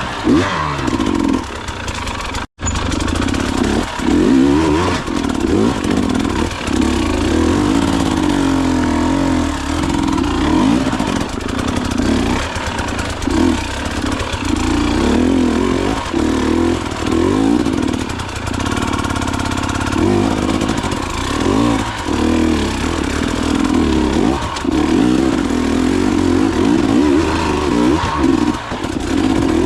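Enduro dirt bike engine revving up and down as it is ridden, the pitch rising and falling continually. The sound cuts out sharply for a moment about two and a half seconds in.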